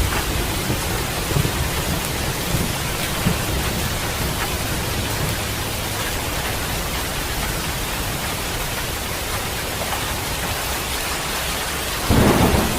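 Heavy rain falling steadily in a thunderstorm, with a low rumble of thunder building near the end.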